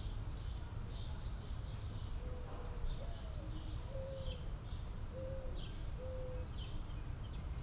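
Birds calling: small birds chirping over and over, and a dove's low cooing call in the middle, a short note, a rising note, then three longer coos. A steady low rumble runs underneath.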